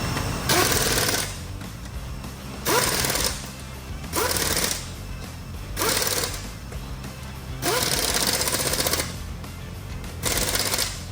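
Pneumatic impact wrench firing in short bursts, about six in all, each about a second long and starting with a brief rising whine, over background music.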